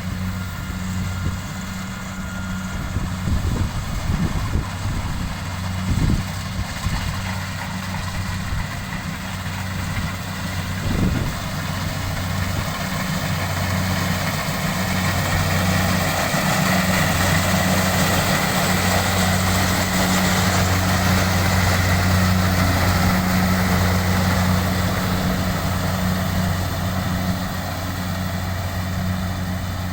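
An engine running steadily with a low hum, growing louder through the middle, with a couple of sharp knocks in the first half.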